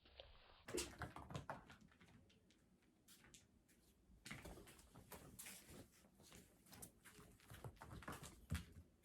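Faint scattered rustling with light knocks and clicks, loudest about a second in and again near the end.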